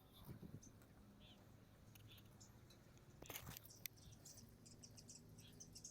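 Near silence: faint background with scattered faint high chirps, and a brief louder rustle with a couple of sharp clicks a little past halfway.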